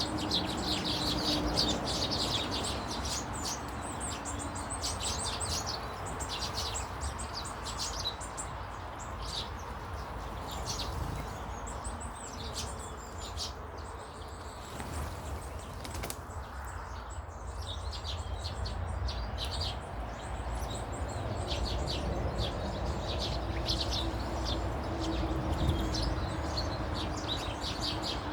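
Many small birds chirping and twittering in quick, short notes, thinning to a quieter spell midway before picking up again.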